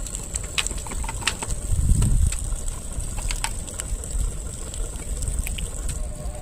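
Scattered light clicks and taps of hand tools and metal fittings during plumbing work on a water heater connection, over a steady low rumble that swells briefly about two seconds in.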